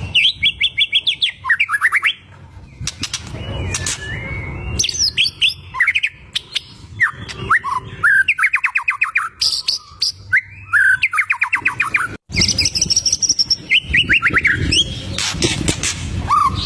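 White-rumped shama (murai batu) in full song: bursts of rapid repeated notes, each about a second long, alternating with whistled phrases and sharp clicks.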